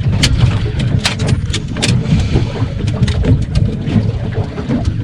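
Wind rumbling on the microphone aboard a small fishing boat, with water and many sharp knocks and clicks from the boat and gear.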